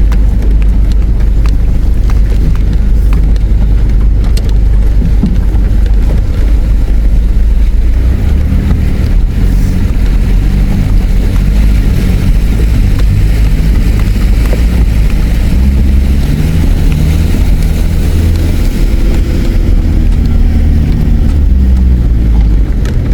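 Four-wheel drive's engine running under load at low speed on a rough track, over a loud low road and drivetrain noise. From about eight seconds in the engine note rises and falls in steps as the throttle changes.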